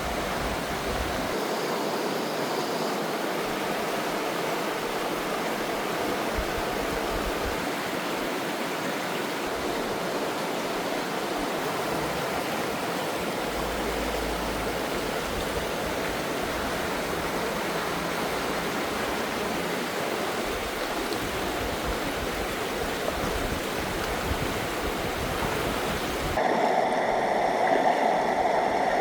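Mountain valley stream flowing steadily over rocks. Near the end it gets louder and changes in tone.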